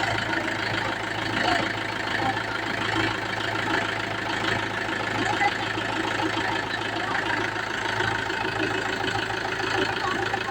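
Tractor diesel engine idling steadily, with people's voices mixed in.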